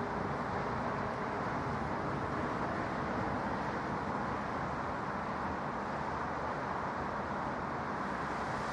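Steady roar of jet aircraft engines, an even noise with no change in level.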